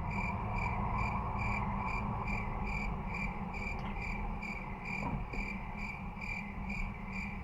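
Cricket chirping in an even rhythm, about two and a half high chirps a second, starting and stopping abruptly: the 'crickets' sound effect for an awkward silence.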